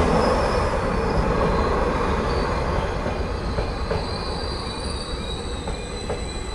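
Greater Anglia passenger train running past over a level crossing: a loud rumble of wheels on rail that eases off slowly as the carriages go by. High wavering squeals sound over it, and the crossing's warning alarm carries on faintly underneath.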